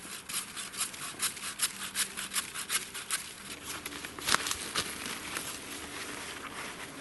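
A quick run of crunches and crackles, several a second, with one sharper crack a little after four seconds, then easing to a softer rustle: snow and spruce branches being trodden on and handled.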